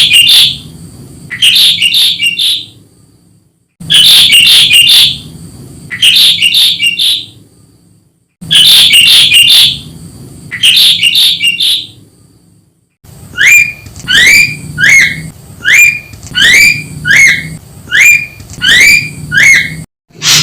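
Ashy drongo calls played as a bird-lure recording: loud clusters of harsh, chattering notes repeated in identical phrases about every four seconds, each cut off abruptly. About two-thirds of the way through, this gives way to a steady run of short rising whistled notes, roughly three every two seconds.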